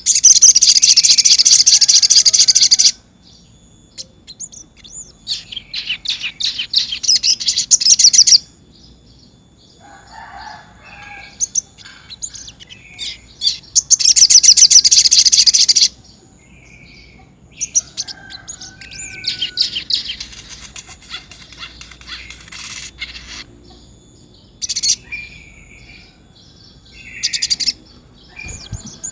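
Brown-throated sunbird (sogon) singing its rolling song: three long, loud, rapid high trills, about three seconds each, with short chirps and call notes in between.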